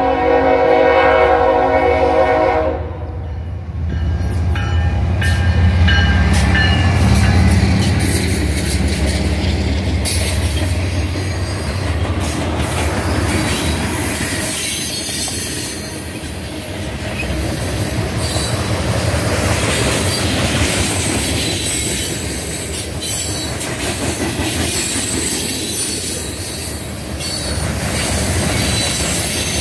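Norfolk Southern freight train passing close by. The lead GE ES40DC diesel locomotive's air horn sounds until about three seconds in, then the locomotives' engines rumble past. A long string of tank cars and boxcars follows, rolling by with steady wheel noise and a high flange squeal.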